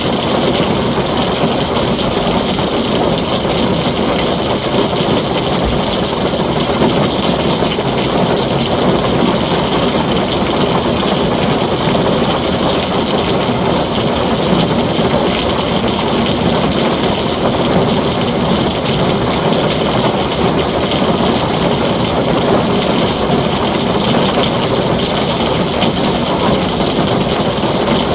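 Heavy rain falling steadily on a tin roof, a dense, even downpour with no break.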